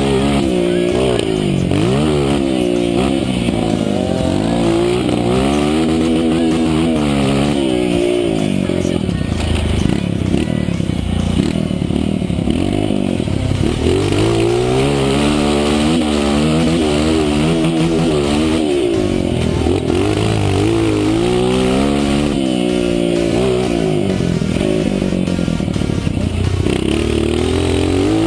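Honda CRF230 dirt bike's single-cylinder four-stroke engine ridden hard, its pitch climbing under throttle and dropping off again over and over as it is accelerated, shifted and shut off around the track.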